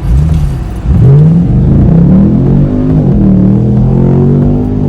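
Camaro SS V8 accelerating hard under full throttle. After a short rev at the start, the engine note climbs steeply, drops back at upshifts about two and three seconds in, and climbs again each time.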